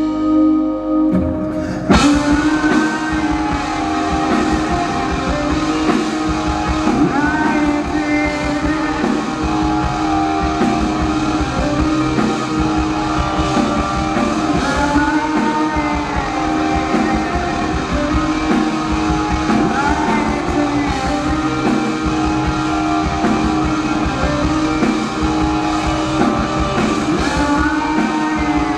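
Live rock band playing an instrumental passage on electric guitars, bass and drum kit. The full band comes in with a hit about two seconds in, and guitar bends recur every few seconds.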